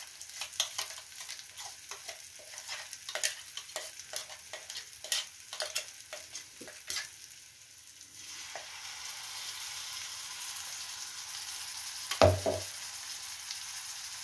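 Red chili and garlic paste frying in ghee in a pan, crackling with scattered sharp pops. About eight seconds in, vinegar from the rinsed mixer-grinder jar is poured in and the crackling gives way to a steady sizzle, with one sharp knock a few seconds later.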